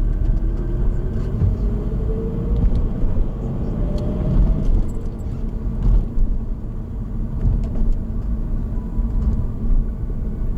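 Car driving on the road: steady low rumble of engine and tyres, with a faint whine rising in pitch over the first few seconds as the car picks up speed.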